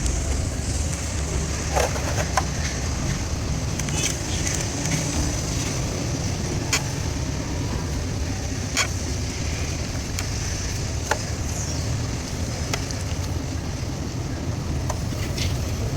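Truck engine running with a steady low rumble, with scattered sharp clicks and knocks at uneven intervals.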